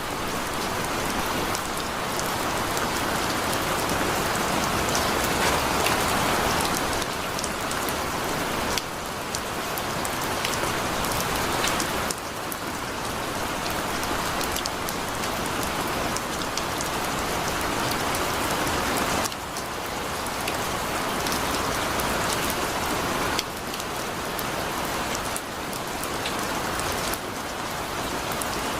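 Heavy rain falling steadily, a dense hiss of drops with fine ticks of individual drops striking a surface. The loudness shifts slightly and abruptly a few times.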